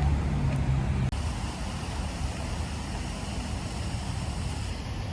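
Low, steady vehicle or traffic rumble. About a second in it cuts off abruptly and gives way to a quieter, even background noise.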